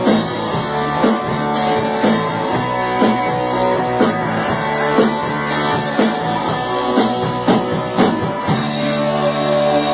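Rock band playing: guitar over drums with a steady beat of about two hits a second. About a second and a half before the end, the drum hits stop and held chords ring on.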